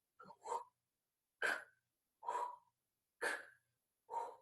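A woman making short, breathy, isolated letter sounds, about one a second, alternating an h-like puff of breath with a short k-like puff. These are the /h/ and /k/ phonics sounds of 'hook' sounded out on their own.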